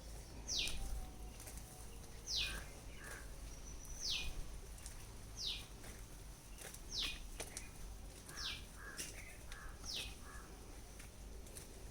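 A bird calling: a single short, high note that slides downward, repeated seven times about every one and a half seconds, with fainter chirps beneath.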